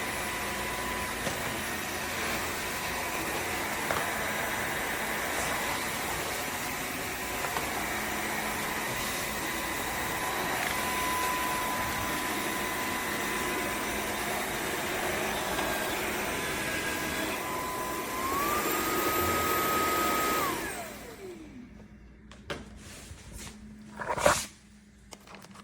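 Dreame H12S wet-dry vacuum mop running with a steady whine. Near the end the whine steps up in pitch, then the motor winds down and stops, followed by a few clicks and knocks.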